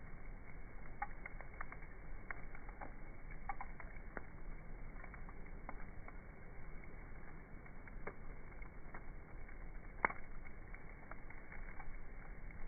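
Wood campfire crackling: irregular small pops and ticks over a low hiss, with one louder snap about ten seconds in.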